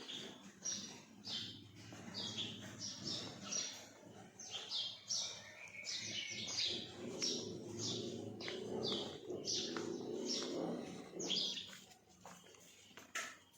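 Birds chirping: short, high chirps, about one or two a second, over a low background noise, with a single sharp click near the end.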